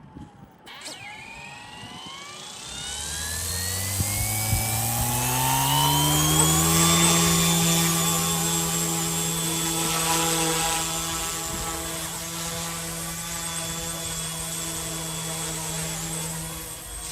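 Eachine E190 PRO UH-1 RC helicopter's electric motor and rotors spooling up, the whine rising in pitch over about six seconds, then running at a steady speed.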